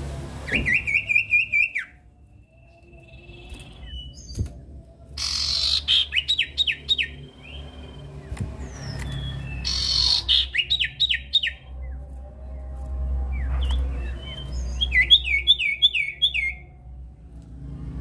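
A common iora (cipoh, locally called sirtu) singing: four bursts of rapid, quick-slurred whistled notes, each lasting about a second, with softer single whistles in between.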